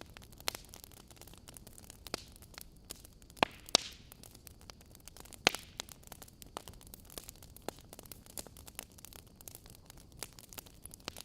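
Wood fire crackling: irregular sharp pops and snaps from burning logs over a faint steady hiss, with a few louder snaps about three and a half seconds and five and a half seconds in.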